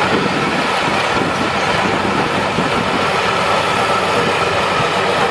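Crown Sumo combine harvester running steadily, loud, with an even mechanical hum.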